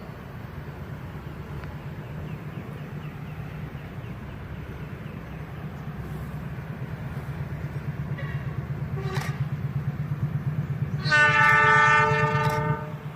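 Diesel-hauled Argo Wilis express train approaching, its low rumble growing steadily louder, then a long blast of the locomotive's multi-tone air horn about eleven seconds in, the loudest sound.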